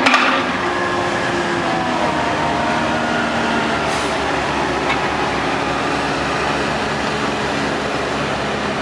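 Heavy diesel truck engines running steadily, with a brief loud noise right at the start.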